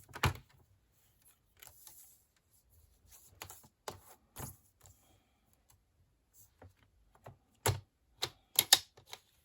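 Scissors trimming a piece of cardstock: scattered snips, clicks and light taps, with a cluster of sharper clicks about three quarters of the way in.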